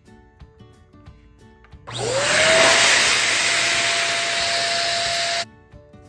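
Electric balloon pump switched on about two seconds in, blowing air into a balloon. Its motor whine rises quickly to a steady pitch over a loud rush of air, then cuts off sharply about a second before the end. Soft background music plays throughout.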